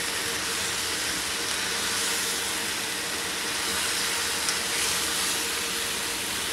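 Diced pumpkin sizzling in oil in a steel pan as it is stirred with a wooden spatula: a steady hiss, with a light tap of the spatula about four and a half seconds in.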